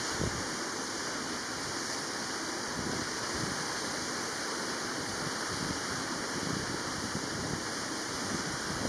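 Steady, even rushing hiss of outdoor ambience, with a brief low rumble of wind on the microphone at the very start.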